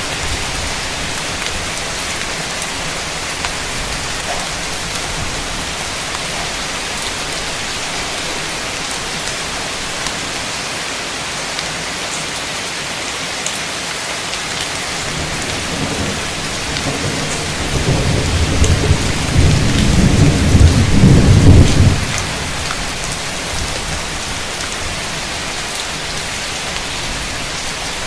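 Heavy rain falling steadily, with a roll of thunder that rumbles in about two-thirds of the way through, swells loudest for a few seconds and dies away.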